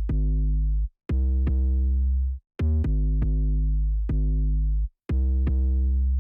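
Electronic music intro: loud sustained synthesizer chords in phrases of one to two seconds, each stopping abruptly for a brief silence, punctuated by sharp drum-machine hits.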